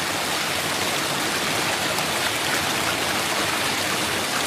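Steady artificial rain of water pouring down and splashing onto the wet floor of a stage set.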